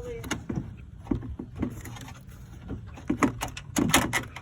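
Plastic coolant reservoir tank knocking and clicking against its mounting brackets as it is worked into place, the knocks coming quicker and louder about three seconds in.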